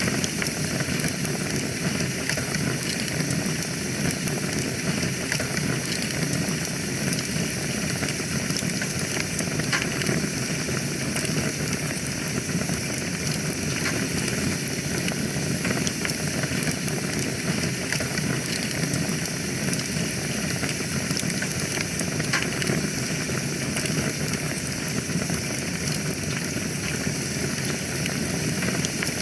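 Fire burning in a fireplace: a steady rushing noise of flames with frequent small crackles and pops.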